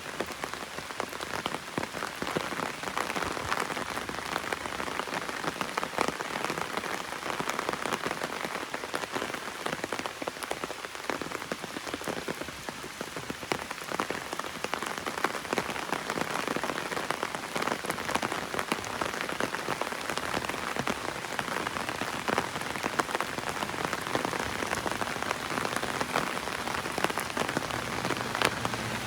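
Heavy rain falling on an umbrella overhead: a steady hiss of rain with many separate, sharp drop taps.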